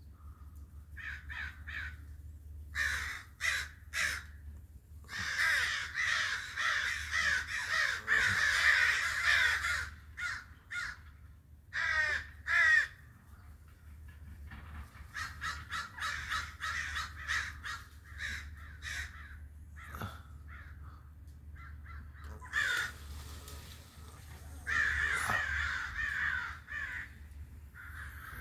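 Crows cawing, many harsh calls overlapping in bursts, densest about five to ten seconds in and again near the end, with two loud single caws around the middle.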